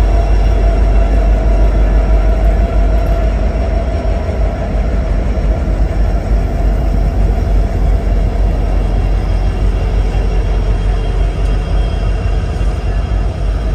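A train rolling past close by: a loud, steady rumble of railcars on the track.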